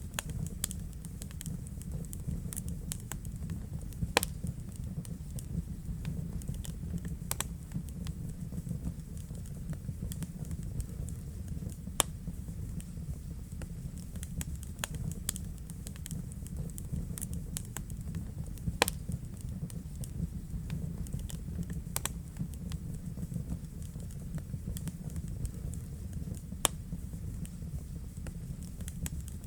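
Wood fire burning in a fireplace: a steady low rumble of the flames with irregular crackles and pops, a few of them sharp and loud.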